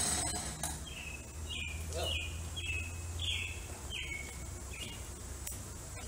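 A songbird calling: a run of about eight short, falling whistled notes, roughly two a second.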